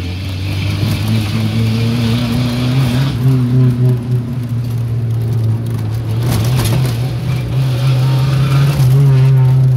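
Fiat Uno's engine running loud through an open exhaust pipe as the car drives. The low note holds fairly steady with small shifts in pitch, and there is a brief rougher rush of noise about six seconds in.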